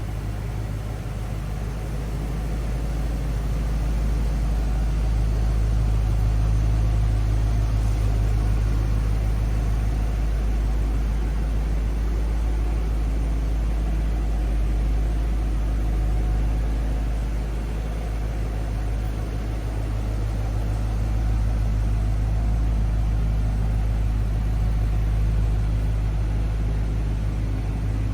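Engine of a 1972 GMC 3500 truck idling steadily, a low rumble that swells slightly and eases off again.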